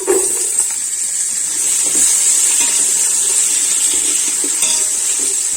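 Sliced onions frying in hot oil in a cooking pot: a loud, steady sizzle that starts suddenly as they go in.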